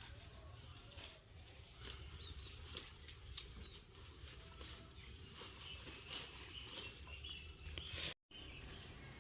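Faint outdoor rural ambience: scattered small clicks, ticks and rustles, with a few faint bird chirps.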